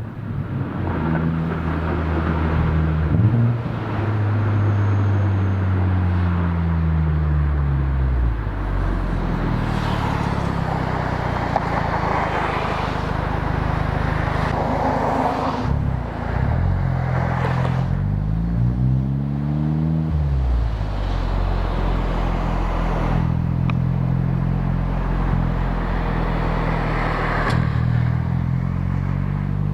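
Exhaust of a Honda Civic Type R FK8's 2.0-litre turbocharged four-cylinder, fitted with a catted downpipe and the stock cat-back, recorded at the tailpipe while driving. The engine note falls steadily as the car slows for a few seconds, holds under a rushing noise, rises briefly and falls again around two-thirds of the way in, then settles to a steady cruise drone.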